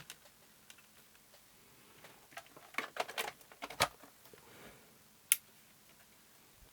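Small clicks and taps of wiring connectors being pushed back into a circuit board by hand, a cluster of them from about two to four seconds in and one sharp click a little after five seconds.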